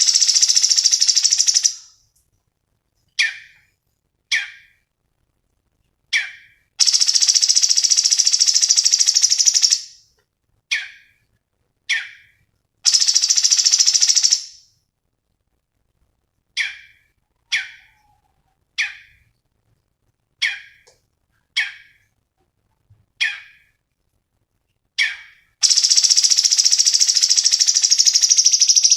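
Cucak cungkok songbird calling: short sharp single notes spaced a second or so apart, alternating with long, loud, rapid high trills that each last a few seconds, four trills in all.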